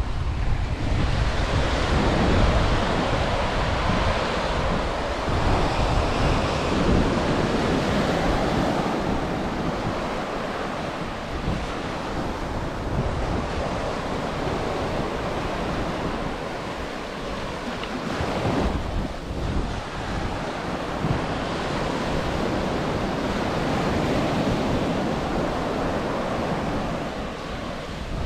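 Ocean surf breaking and washing up a sandy beach, swelling and easing in waves every few seconds, with wind buffeting the microphone.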